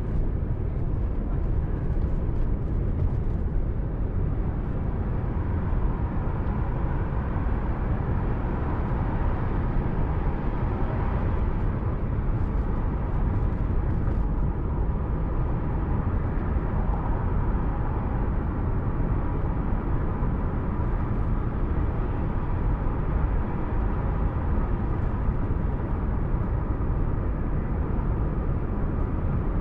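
Steady road and engine noise of a moving car, heard from inside the cabin, with a faint steady whine.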